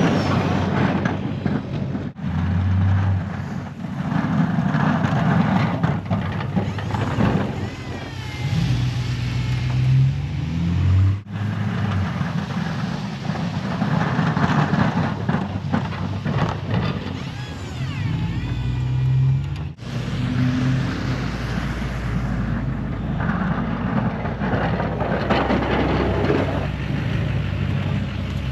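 Snow-plowing vehicle engine running under varying load, rising and falling in pitch, with a faint gliding whine at times. The sound breaks off abruptly three times, as the footage jumps.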